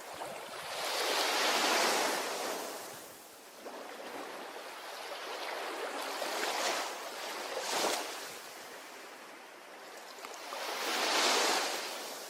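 Ocean waves breaking on a shore, the surf rising and falling every few seconds. It is loudest about two seconds in and near the end, with two brief, sharper breaks in the middle.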